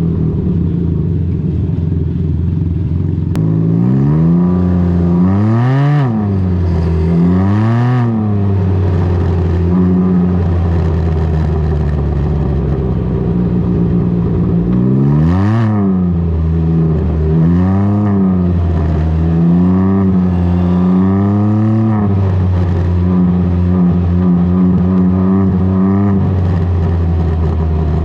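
Can-Am Ryker's three-cylinder engine through an aftermarket BKD Insomnia series exhaust, running steadily and revved in a series of quick throttle blips: two about five to eight seconds in, one sharp one near the middle, then several smaller ones.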